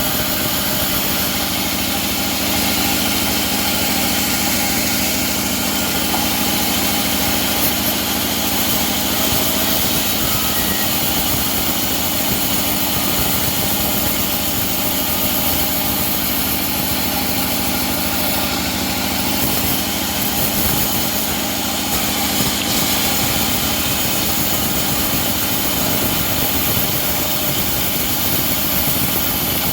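A homemade bandsaw mill's engine running steadily, an unbroken mechanical drone with no change in pitch or level.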